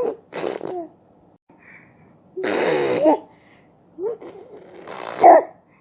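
A baby's voice in several short vocal bursts of babbling, the longest about two and a half seconds in.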